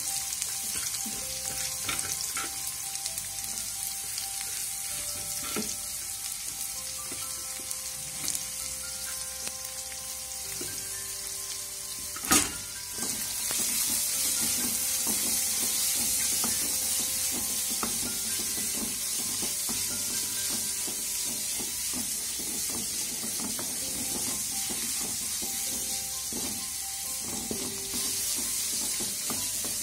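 Chopped onions and green chillies sizzling in oil in a steel kadai over a high flame, with a wooden spatula stirring and scraping the pan. There is one sharp knock about twelve seconds in, and the sizzle is louder after it.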